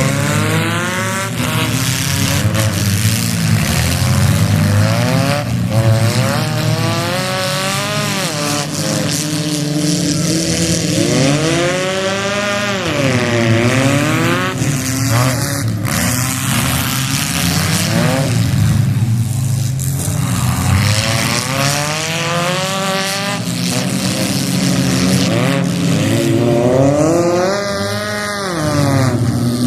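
Several demolition derby cars' engines revving hard, the pitch climbing and dropping again and again.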